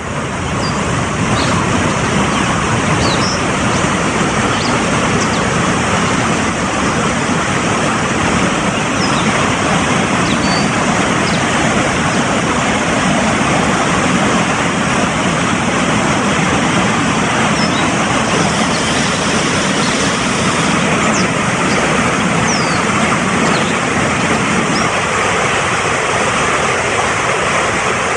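Mountain stream rushing steadily over rocks, a loud, even flow of water, with faint short high bird chirps scattered through it.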